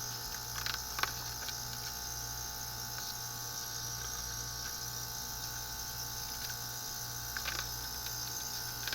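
Heat pump running after restarting itself from a low-pressure lockout: a steady low hum with a constant high whine. A few light clicks come about a second in and again near the end.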